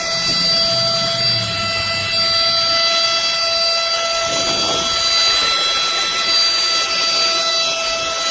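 Horsepower Duck compact cordless vacuum running steadily, a high motor whine with several even overtones, while picking up coffee grounds. A brief rougher rush sounds about four seconds in.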